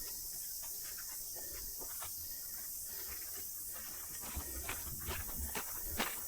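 Steady high-pitched chorus of cicadas droning through the bush, with scattered clicks and a few soft knocks from footsteps on the track in the second half.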